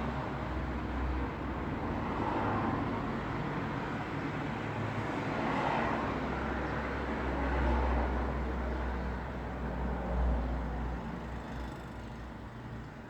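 Road traffic noise: a steady rumble and tyre hiss of passing vehicles, swelling as louder vehicles go by around the middle and again briefly later, then fading toward the end.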